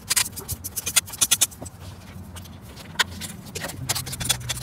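Sharp metallic clicks and rattles from a ratchet working on a bolt. They come thick in the first second and a half, with one loud click about three seconds in, and a low steady hum sets in near the end.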